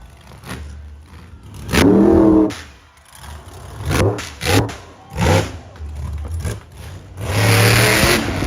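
Monster truck engine revving in repeated throttle bursts, the longest and loudest near the end.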